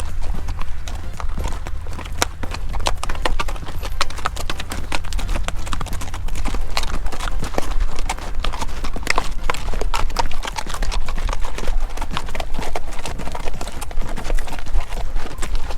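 Horse hooves clip-clopping: a steady run of sharp hoofbeats over a constant low rumble.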